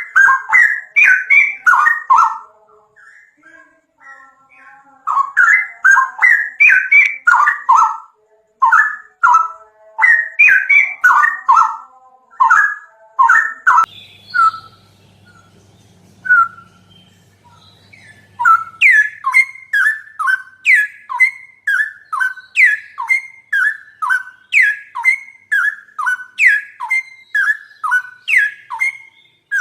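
A songbird chirping in loud, rapid phrases of repeated whistled notes, with short pauses between phrases. Near the middle a faint low hum sits under a pause, and in the last third the bird settles into a regular run of sharp downward-slurred notes, about two a second.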